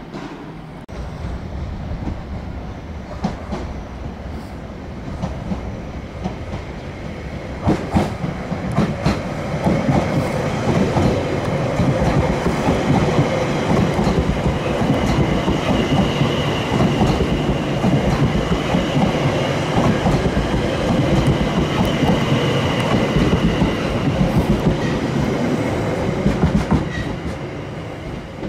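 A train running past on the tracks, its wheels clicking over the rail joints. It grows louder about eight seconds in, carries a faint high whine through the middle, and fades near the end.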